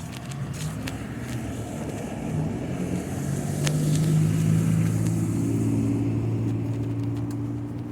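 A car drives past, its engine hum and tyre hiss growing louder to a peak about halfway through, then fading away near the end.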